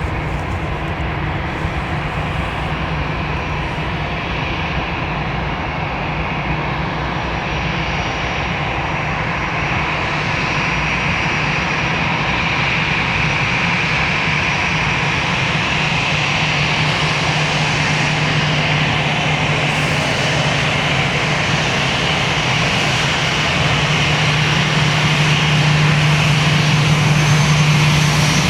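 Jet airliner's engines running at takeoff thrust, a continuous noise that grows slowly louder, with a steady low hum strengthening near the end.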